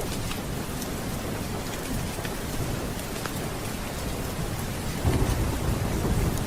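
Steady rain with a low thunder rumble that swells about five seconds in, over a few faint sharp ticks.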